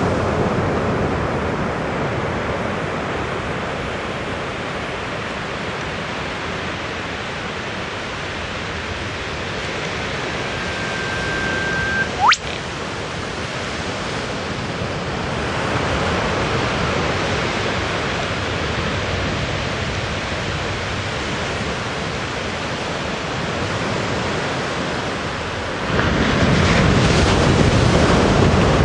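Eastern whipbird male calling once: a long, steady whistle held for about two seconds, ending in a sharp upward whip-crack about twelve seconds in. Under it runs a steady rushing noise that grows louder near the end.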